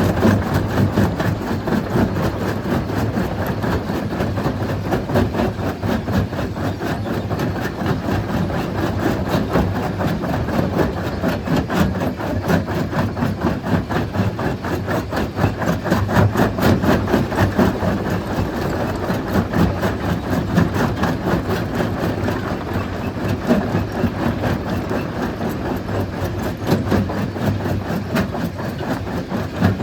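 Stone crushing machine running and breaking rock: a steady, loud, dense clatter of many quick knocks over the low drone of its machinery.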